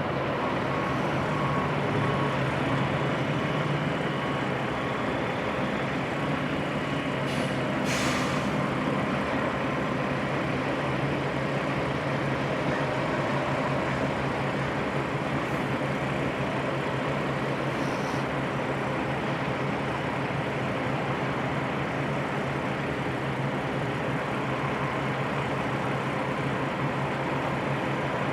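Heavy truck diesel engine running steadily, with a short hiss of air about eight seconds in and a fainter one later.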